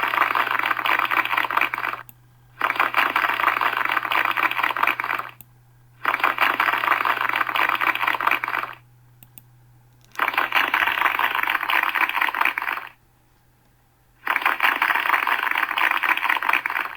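Applause in repeated bursts: five stretches of dense clapping, each about two and a half to three seconds long, starting and stopping abruptly, with pauses of about a second between them.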